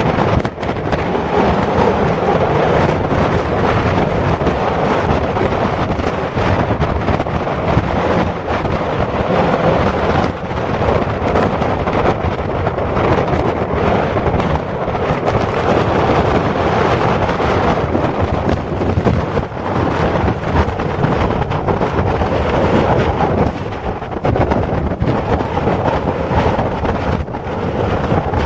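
Strong typhoon wind gusting and buffeting the microphone, a loud rumbling rush that rises and falls without a break.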